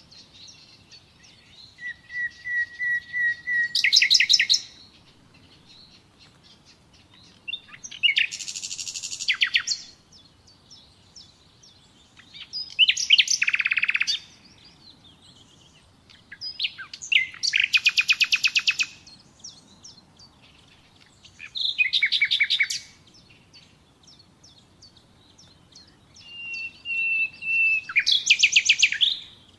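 Common nightingale singing in separate phrases a few seconds apart, six in all. Each phrase builds from a few notes, some from a long even note, into a fast, loud run of repeated notes. Faint chirping continues in the gaps.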